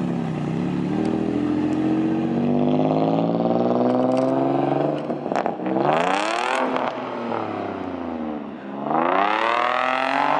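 Nissan 350Z's 3.5-litre V6 revved hard while the car is slid through a drift. The engine pitch climbs steadily for about five seconds, goes loud and harsh around six seconds in, drops away, then climbs steeply again near the end.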